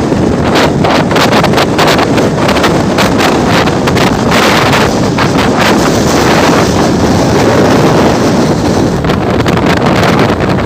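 Strong gusting wind buffeting the microphone, loud and continuous, with frequent sharp crackles and rattles running through it.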